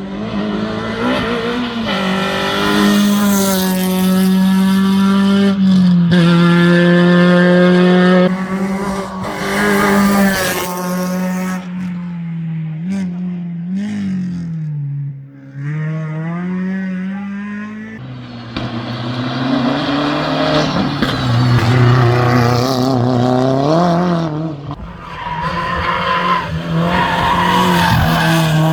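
Race car engine running hard, its pitch holding high, then stepping and dipping as it changes gear and slows, sinking lowest near the middle before it builds again.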